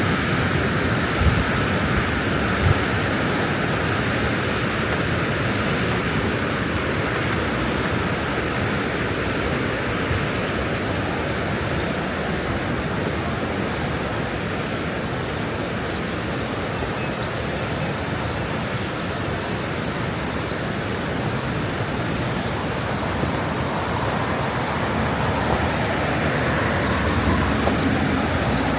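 Steady, even rush of fast-flowing water, a waterfall or mountain river, with two small knocks about a second and two and a half seconds in.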